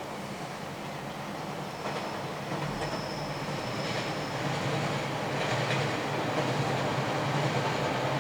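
A train running past on the railway line, its noise growing louder, with a steady low hum and a thin high squeal for a couple of seconds partway through.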